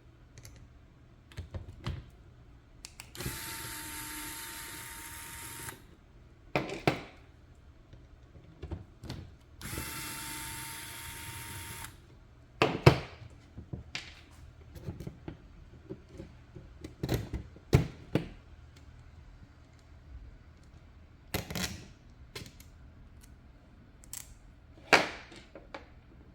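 Small electric screwdriver running in two steady runs of about two and a half seconds each, backing out screws, with clicks and knocks of small plastic and metal parts being handled between and after.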